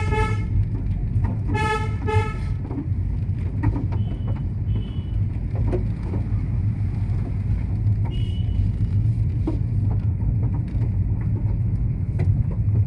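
Motor vehicle running with a steady low rumble, its horn honking once right at the start and twice more in quick succession about two seconds in.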